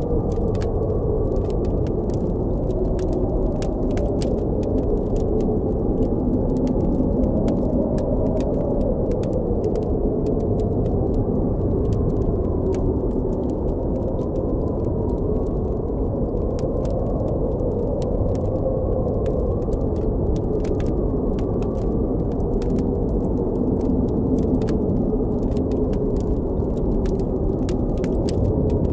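Blizzard wind blowing steadily with a low howl that wavers slowly up and down in pitch, over a campfire crackling with frequent small sharp pops.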